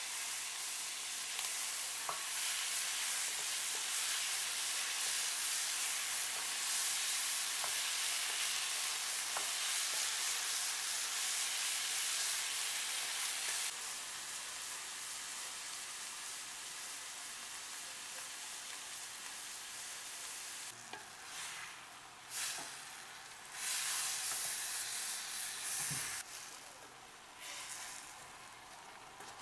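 Vegetables frying and sizzling in a stainless steel sauté pan while being stirred with a wooden spatula. The sizzle is a steady hiss that drops a little about halfway through and turns uneven, with short breaks, near the end.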